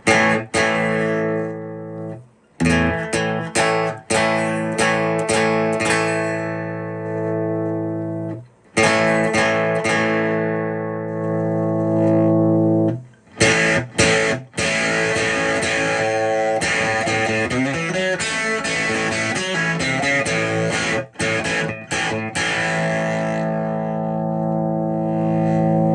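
Electric guitar played through a Movall Jumpspace overdrive pedal with the drive partly up, the tone just starting to break up. It plays ringing chords and runs of choppy strummed stabs, with short breaks between phrases and a held chord at the end.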